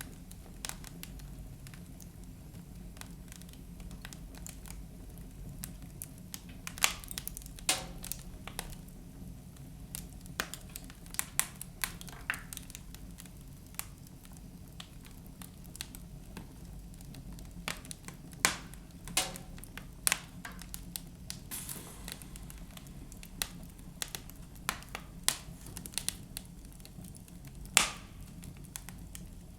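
Wood fire burning in a fireplace, crackling with irregular sharp pops over a low, steady rumble of flame.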